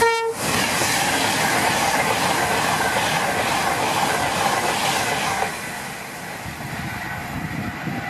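Avanti West Coast Class 390 Pendolino electric train giving a brief single-note horn blast at the start, then passing close at speed with a steady rushing of wheels and air that drops away about five and a half seconds in.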